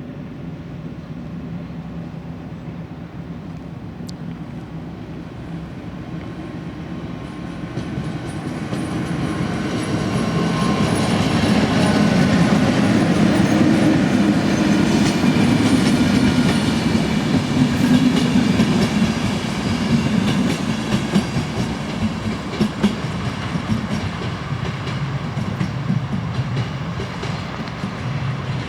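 A train passing on rails: it builds up over several seconds, is loudest around the middle and eases off slightly near the end, with the wheels clacking over the rail joints as the cars go by.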